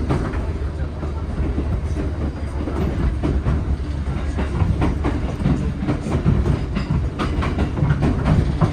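JR 415 series 1500 electric multiple unit running, with a steady low rumble and wheels clicking over the rail joints, heard from inside the carriage.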